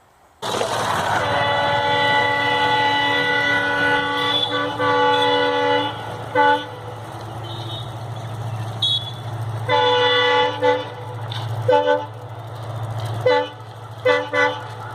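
Indian Railways locomotive horn: a long blast lasting several seconds and a short toot, then another blast about ten seconds in followed by several short toots. A steady low rumble of the train runs underneath.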